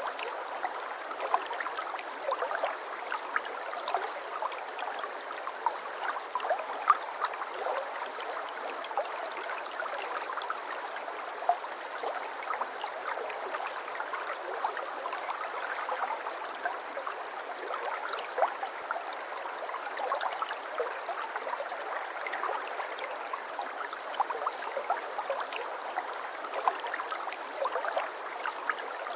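Shallow brook babbling steadily over stones, a continuous rush of water dotted with many small splashes and gurgles.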